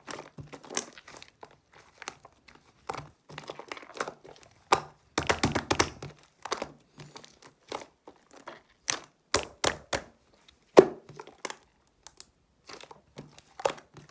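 Soft, foamy slime being pressed, poked and stretched by hand, giving an irregular run of sticky clicks and crackles, with a denser burst of crackling about five seconds in.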